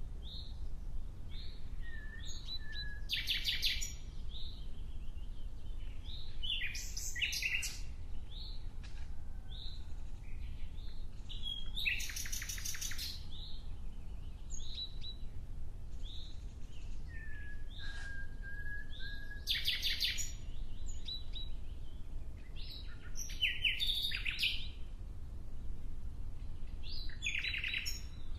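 Birds chirping and calling: short high chirps and whistled notes, broken every few seconds by loud buzzy, rattling calls. A steady low rumble runs underneath.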